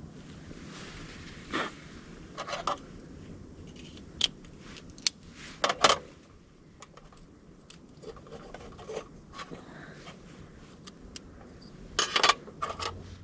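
Short scrapes, rustles and clinks of gear being handled, irregular, with the loudest about six and again about twelve seconds in, over a low steady background.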